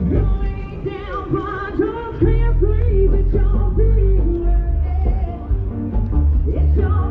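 Rockabilly band playing live, a woman singing the melody over a steady, prominent bass.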